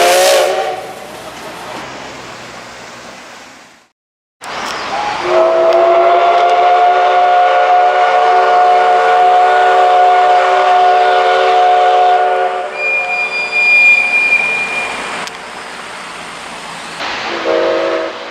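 Steam locomotive whistle, the C58 239 of the SL Ginga, sounding one long steady chord-like blast of about seven seconds, followed by a thin high squeal and the start of a short blast near the end; the opening moment holds the tail of another blast before a cut.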